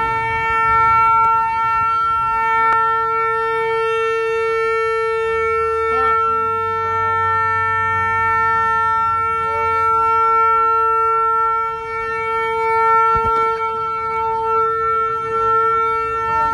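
A vehicle horn blaring without a break at one steady pitch, held on continuously.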